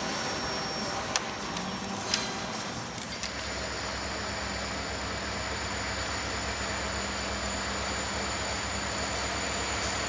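Rail noise from a freight train, with two sharp knocks in the first seconds. After a sudden change about three seconds in, a steady low rumble with a high thin whine runs on.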